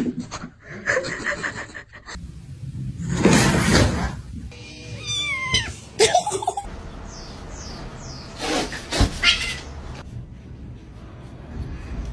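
Cats meowing: a few separate calls, several of them falling in pitch, in the middle of the stretch.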